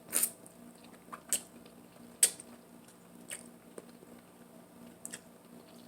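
Eating sounds close to the microphone: a few scattered sharp bites and wet chewing clicks, the sharpest about two seconds in, over a faint steady hum.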